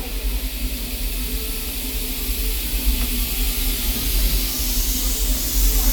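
Walt Disney World Railroad steam locomotive hissing steam at a standstill, the hiss growing brighter and louder about four and a half seconds in, over a low steady rumble.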